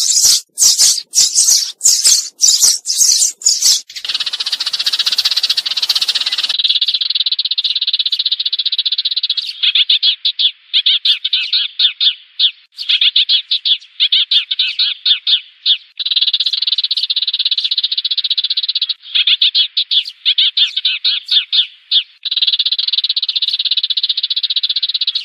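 Sparrows chattering in a fast, dense run of chirps that comes in bouts of a few seconds with short breaks, after a few seconds of sharper, separate chirps at the start. It is a sparrow flock-calling chatter played as a lure.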